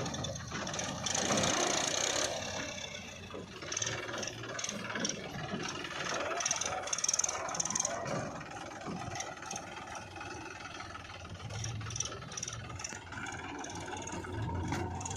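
Diesel engine of a JCB 3DX backhoe loader running under work, with irregular metallic rattles, knocks and scraping as the machine digs and loads mud.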